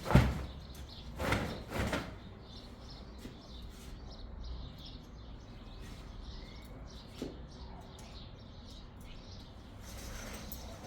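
Three heavy thumps or knocks in the first two seconds, the first the loudest, then small birds chirping faintly, with a light tap about seven seconds in.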